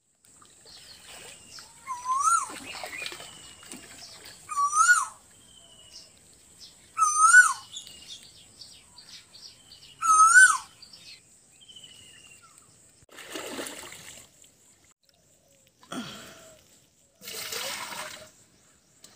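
A bird calls four times, a short rising-and-falling note repeated about every two and a half seconds, over a steady high-pitched insect whine. In the last few seconds water splashes three times as it is stirred by hand in a shallow sand well.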